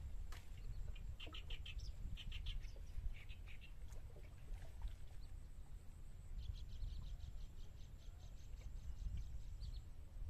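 Birds chirping in short bursts over a low rumble. From about six seconds in comes a fast, even trill of roughly seven notes a second that lasts several seconds.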